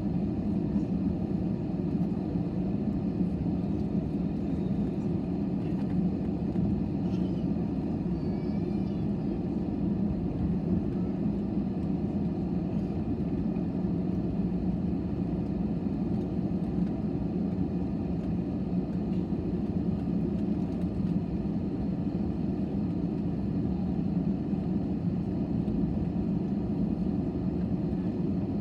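Steady jet airliner cabin noise: a constant low drone of the engines and airflow heard from inside the cabin, with no change in level.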